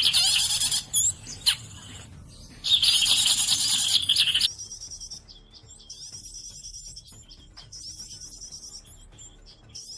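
Small birds chirping and twittering in dense, high-pitched chatter, loud in two spells in the first half, then quieter short bursts of chirping that repeat every second or two.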